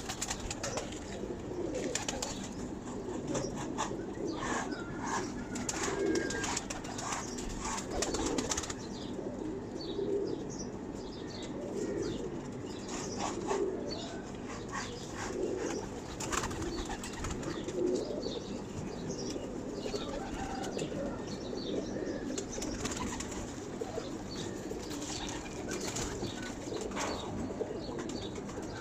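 Pakistani pigeons cooing over and over in low, rounded calls, with flutters of wings and sharp clicks, busiest in the first nine seconds or so.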